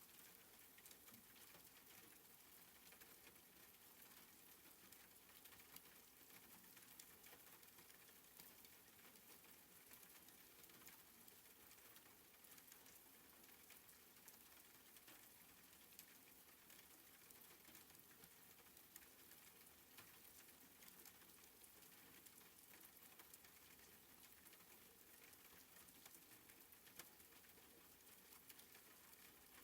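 Soft rain falling steadily, heard faintly as an even hiss with many small scattered drop patters.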